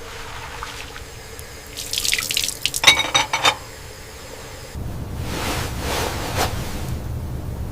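Water from a tap splashing into a sink, with a few quick ringing clinks partway through, then a steady, swelling wash of noise.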